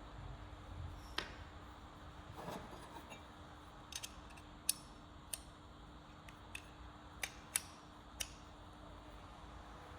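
Scattered light clicks and taps of small hard objects being handled at a workbench, about eight spread irregularly, with a brief soft scrape near the start, over a faint steady hum.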